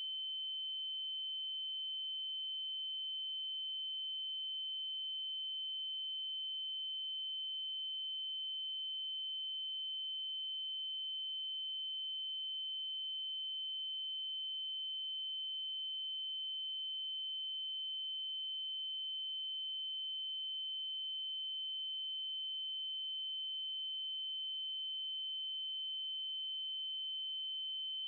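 Synthesised 3072 Hz triangle-wave tone: a steady, unbroken high-pitched electronic tone held at one pitch.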